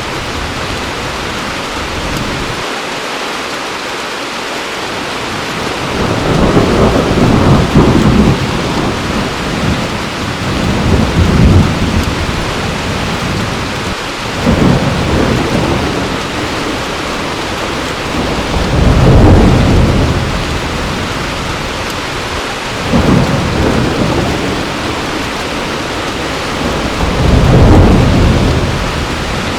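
Heavy rain falling steadily, with thunder rumbling in a series of low swells, about one every four seconds after the first few seconds.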